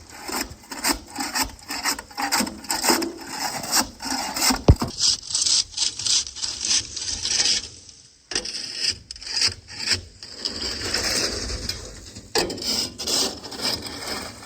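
A load of frozen sand scraping and grinding against a trailer as it is unloaded, a rapid, irregular rasping crunch, briefly easing off about eight seconds in.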